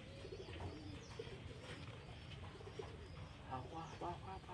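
Domestic pigeons cooing faintly.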